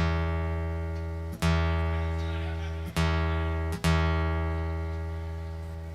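Acoustic guitar's low open string plucked four times at the same low pitch, each note left to ring and fade: the guitar being tuned by ear between songs.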